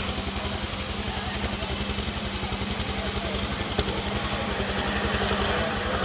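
Heavy engine idling with a steady low, rhythmic beat, slowly growing louder.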